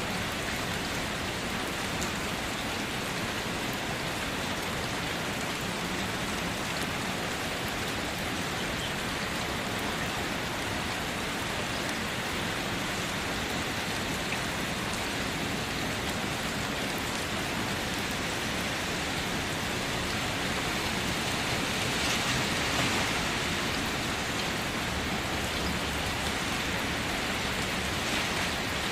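Steady rain falling, an even hiss with scattered individual drops pattering on surfaces, swelling a little about three quarters of the way through. No thunder.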